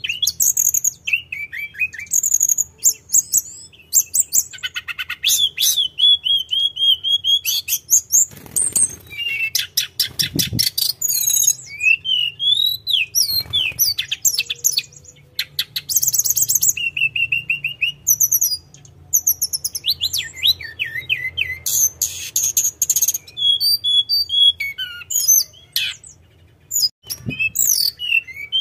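Tledekan gunung songbird singing continuously, a varied run of high whistled glides, fast trills and rapid chirps in long rolling phrases with short pauses between them. A faint low hum lies underneath.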